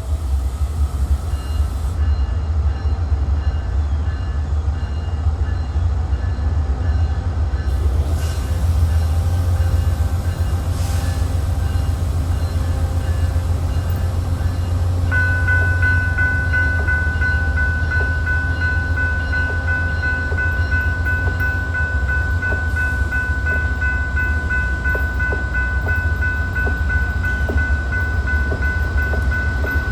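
Freight train running past: a steady heavy rumble of locomotive engines and rolling cars. About halfway through, a steady high ringing tone joins and holds until near the end.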